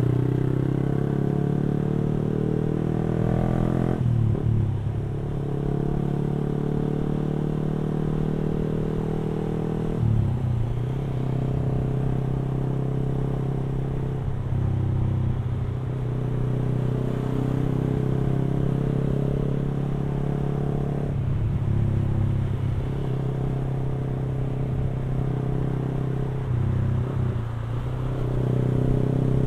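Yamaha R15 V3's single-cylinder engine through an aftermarket exhaust, heard from the rider's seat while cruising in traffic: a steady low drone that drops off and picks up again about four times as the throttle is eased and reopened.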